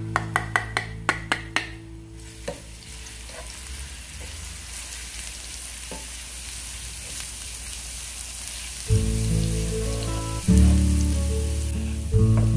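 Minced garlic sizzling in hot oil in a nonstick frying pan while it is stirred with a wooden spatula, a steady high hiss. A quick run of about seven sharp taps comes in the first two seconds. Soft background music runs underneath and grows louder about nine seconds in.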